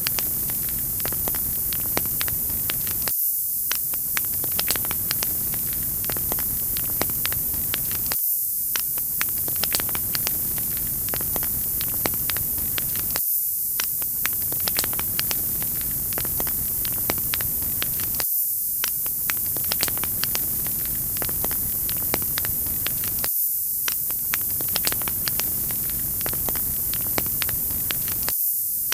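Wood fire crackling: a dense run of small sharp pops over a steady hiss. The sound is a short loop that repeats about every five seconds.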